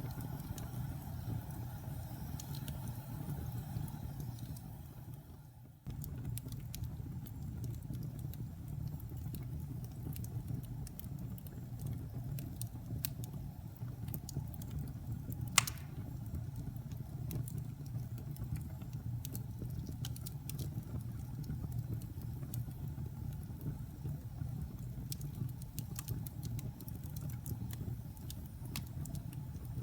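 Wood fire burning in a fireplace: a steady low roar with scattered crackles and one sharp loud pop about halfway through. The sound fades away about five seconds in and cuts back in abruptly a moment later.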